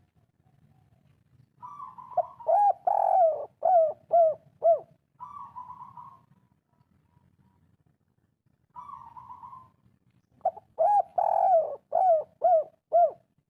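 Spotted dove (derkuku) singing its 'kuk 3' song: two phrases of loud, rhythmic cooing, each a quick run of short coos. A softer, drawn-out coo comes between them.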